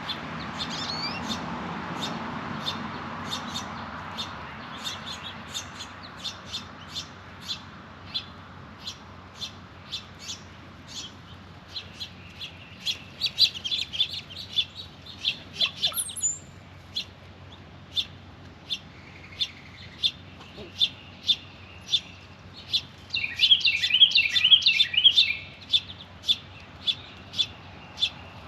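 Small songbirds at a bird feeder calling: a steady series of short high chips, about one or two a second, with bursts of rapid twittering around the middle and again near the end. A low rumble in the background fades out over the first few seconds.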